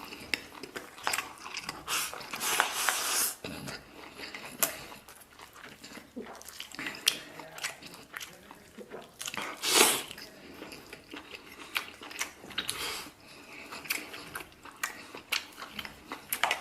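A person eating braised beef and rice close to the microphone: irregular chewing and mouth noises with scattered sharp clicks, loudest in a burst about ten seconds in.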